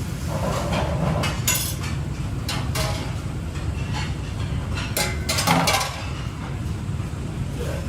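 Kitchen utensils and cookware clinking and clattering, a handful of sharp knocks and clinks spread through, over a steady low hum.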